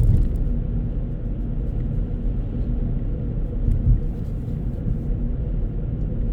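Steady low rumble of road and engine noise heard inside a moving car, with a brief bump near the start and another about four seconds in.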